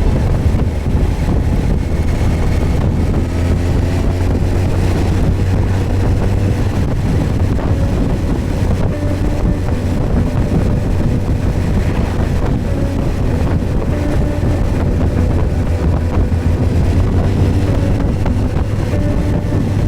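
Suzuki GSX1250FA's inline-four engine running steadily while riding, with heavy wind noise buffeting the microphone.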